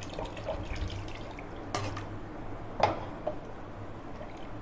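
Water poured into chicken curry in a kadai and stirred in, with a metal spoon knocking the pan twice.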